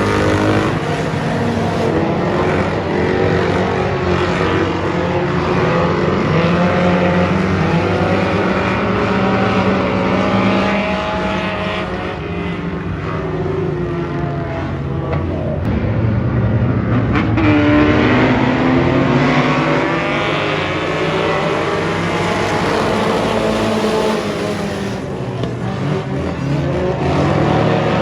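Race car engine running hard, its pitch rising and falling repeatedly as it speeds up and slows.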